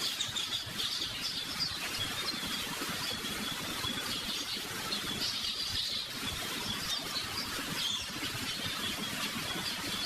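Continuous high chirping from small birds over a low, steady background hum of the open hall.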